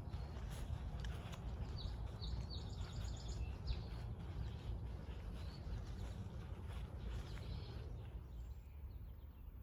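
Wild birds singing, with chirps and a quick repeated trill in the first few seconds, over a steady low rumble.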